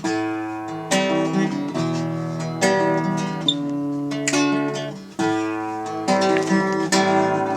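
Guitar strumming sustained chords, a new chord struck about once a second, as an instrumental passage between verses of the song.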